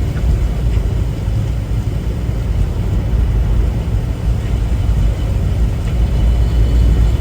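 Steady low drone of a semi-truck heard from inside the cab while driving, engine and tyre noise on rain-wet road.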